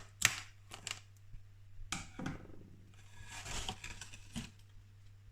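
Handling noises: a few sharp clicks, then a stretch of rustling, over a steady low hum.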